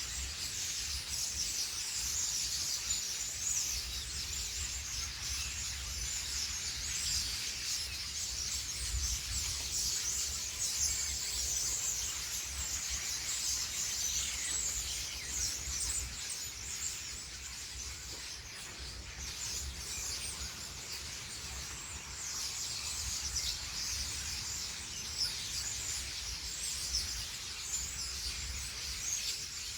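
Many small birds chirping and twittering at once, a dense, continuous high-pitched chatter, with a low rumble of wind on the microphone underneath.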